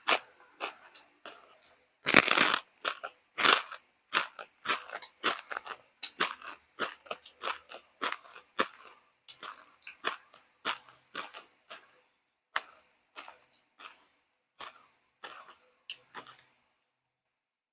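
A person chewing crunchy food close to the microphone, a steady run of crisp crunches about two a second that stops near the end.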